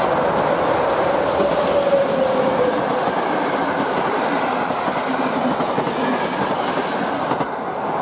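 A train running past on the line: a steady rumble and rattle of wheels on the rails, with a faint whine falling slowly in pitch in the first few seconds.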